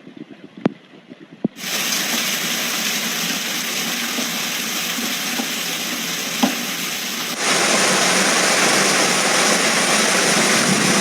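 A few sharp knocks, then heavy rain sets in abruptly about a second and a half in as a loud, steady hiss, which jumps louder again about seven seconds in.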